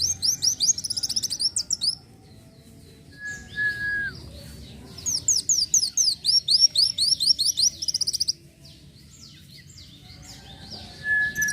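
Kolibri wulung, a sunbird, singing rapid trills of sharp falling notes in two long runs, with scattered softer notes between them. A single steady whistled note, dropping at its end, comes about three seconds in, and another starts near the end.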